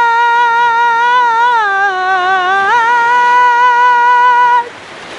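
A woman's singing voice holding one long note with vibrato, sliding down in pitch in the middle and back up, in an Arabic song. It cuts off about four and a half seconds in, leaving a steady rushing noise.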